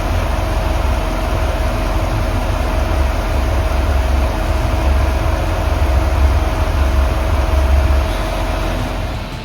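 C7 Corvette's 6.2-litre V8 idling steadily with a deep low rumble, easing off slightly near the end. The engine has new head gaskets and its misfire is cured.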